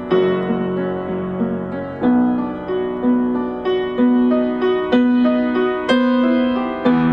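Background music: a slow, gentle piano melody, its notes struck about once a second and left to ring.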